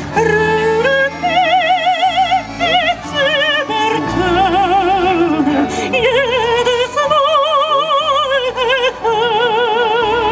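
Operatic singing by a high voice with a wide, even vibrato, holding long notes over sustained instrumental chords.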